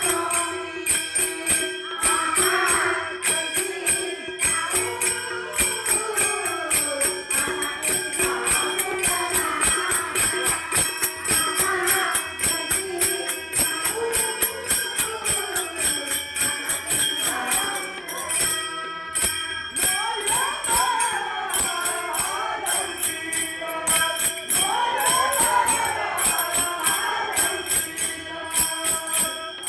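Women singing a devotional bhajan, with jingling metal percussion keeping a steady beat and a steady held note underneath.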